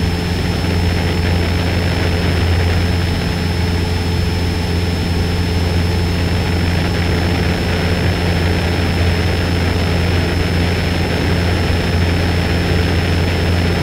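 Cessna 172's piston engine and propeller in steady cruise, heard as a constant low drone inside the cabin.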